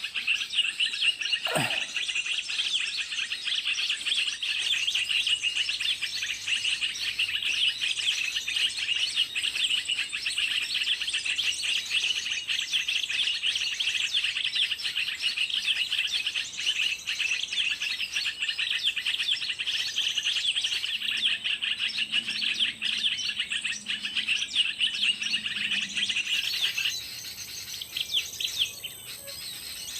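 Dense, rapid, high-pitched chirping of small birds with no break, stopping abruptly about 27 seconds in.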